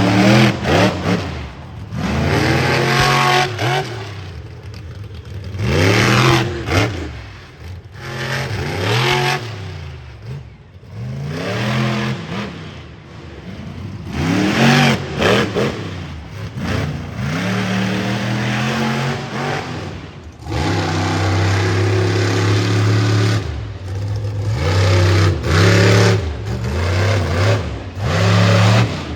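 Monster truck engines revving hard and dropping back again and again, a loud surge every few seconds, with the engine pitch sweeping up and down.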